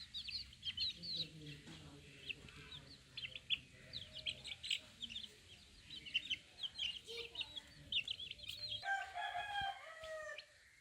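A brood of chickens peeping rapidly in short, high chirps, with lower clucking calls beneath. Near the end an adult chicken gives one drawn-out call of about a second and a half that dips in pitch as it ends.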